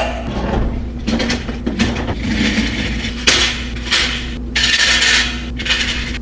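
Metal equipment rattling and clattering in repeated bursts of about a second each, over a steady low mechanical hum.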